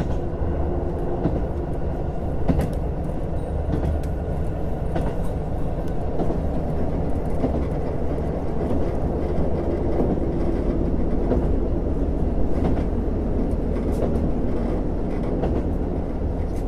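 JR Hokkaido KiHa 150 diesel railcar running along the line, heard from inside the car. A steady rumble of engine and wheels on rail, with scattered clicks of the wheels over the track.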